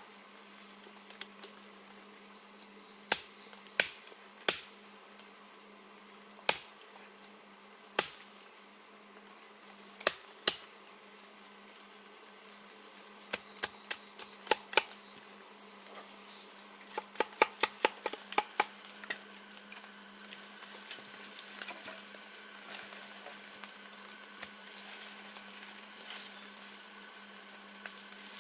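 Sharp knocks struck one at a time a second or two apart, then in quicker runs, over a steady high-pitched insect drone that grows louder in the second half.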